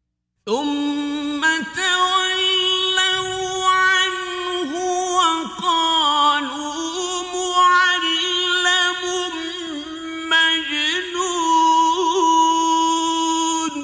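A man reciting the Quran in a slow, melodic, chanted style, holding one long ornamented phrase on a steady pitch with wavering turns for about thirteen seconds. The voice starts about half a second in and fades out with an echo at the end.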